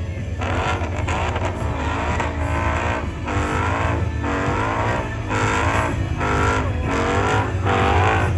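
Car engine held at high revs with a steady low rumble, with a wavering tire squeal over it that breaks off and starts again about once a second.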